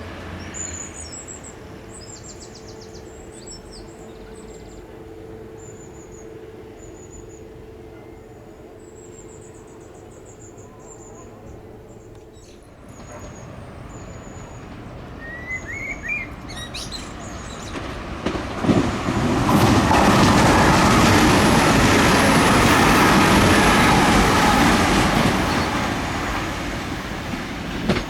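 Birds chirping over a steady distant hum, then a train approaching and passing close by, loudest for several seconds about two-thirds of the way through before easing off.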